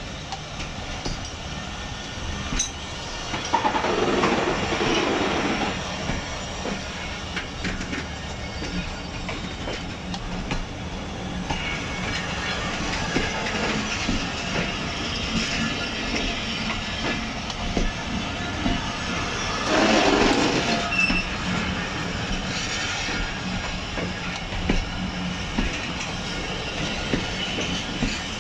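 Pakistan Railways passenger coaches rolling slowly past during shunting: a steady rumble and clatter of wheels on the rails. It swells louder twice, a few seconds in and again about two-thirds of the way through.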